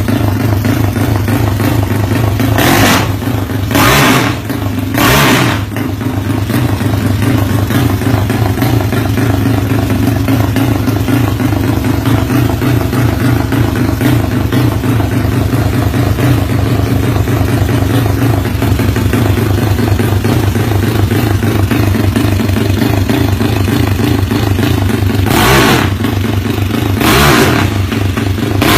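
Tuned Yamaha Mio scooter engine, set up Thai style, running at a steady fast-pulsing idle with a chopping, helicopter-like beat. It is blipped with short throttle bursts three times a few seconds in and twice more near the end.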